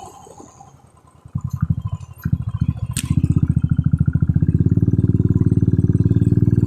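Motorcycle engine running with a rapid, even thumping beat. It comes in about a second and a half in and runs steady and louder from about three seconds in.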